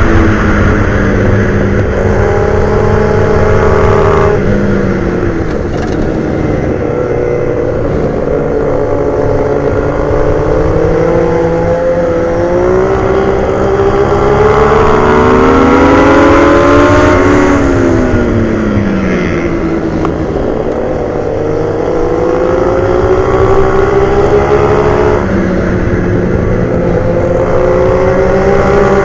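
Motorcycle engine at speed on a race track. The revs climb for long stretches, change abruptly about four seconds in, and fall steeply around seventeen seconds in, as when braking into a corner, before building again.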